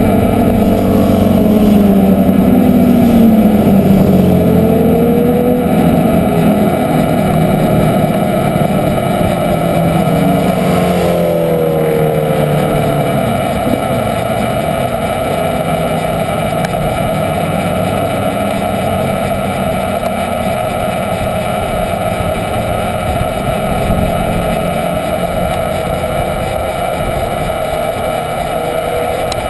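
Superbike engines running, with rising and falling engine notes over the first dozen seconds, then a steadier engine drone under a constant rush of wind.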